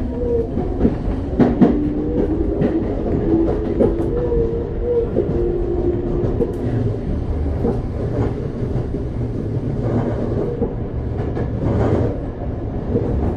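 Running sound inside a Toei 5300-series subway car: the Mitsubishi GTO-VVVF inverter whines in steady tones that shift in pitch for the first several seconds, then fades, leaving the low rumble of the wheels with scattered rail-joint clicks.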